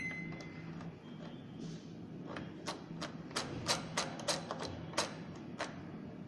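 Microwave oven running on high with a low hum. The tail of its start beep fades out in the first second, and a string of light, irregular clicks and ticks follows from about two seconds in.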